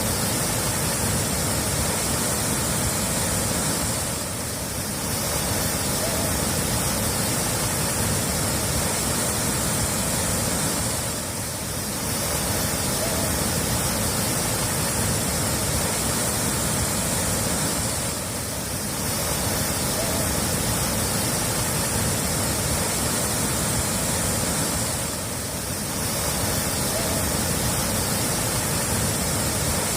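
Steady rushing of running water, a full even hiss that dips briefly about every seven seconds, as a recording looped over and over would.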